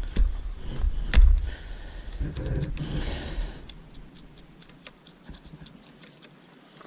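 A few sharp clicks and knocks, the two loudest a little after the start and about a second in, then scattered light ticks over a low rumble that fades away.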